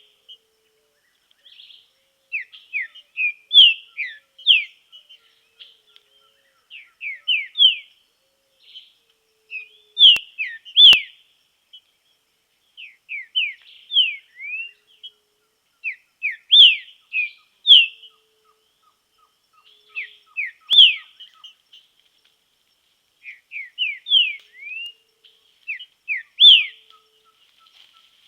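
Green-winged saltator (trinca-ferro) singing: short phrases of quick, clear swept whistles, repeated every few seconds with brief pauses between.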